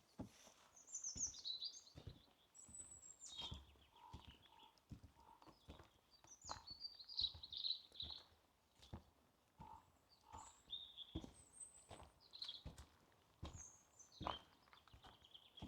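Several small birds chirping and warbling on and off, with lower whistled notes now and then, over a walker's soft, regular footsteps on a forest path.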